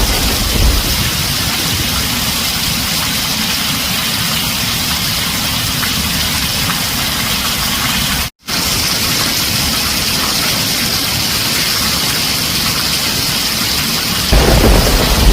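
Heavy rain drumming steadily on a tin roof as an even hiss, with a low rumble of thunder fading in the first second and swelling back in near the end. The sound cuts out completely for a split second about eight seconds in.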